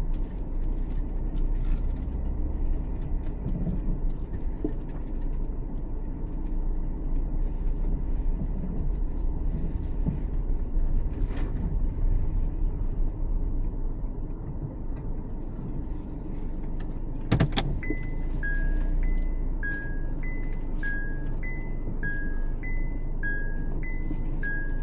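Steady low rumble of a car driving. About two-thirds of the way in there is a sharp knock, then a simple high two-note tune starts, alternating notes roughly once a second.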